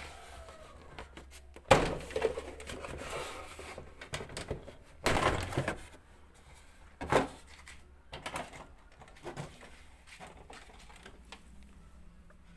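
Hard knocks and clattering of objects being handled, three louder ones about two, five and seven seconds in with lighter clicks between, over a faint low steady hum.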